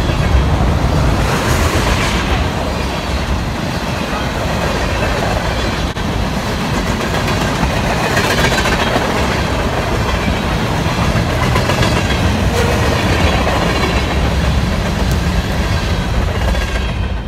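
Covered hopper and tank cars of a freight train rolling past close by: a steady, loud rumble and clatter of steel wheels on the rails.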